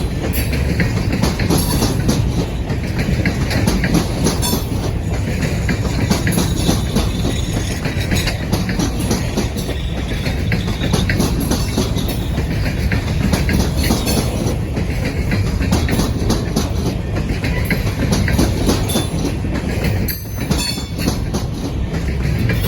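Cars of a ballast train rolling past, a steady low rumble with the wheels clicking over rail joints.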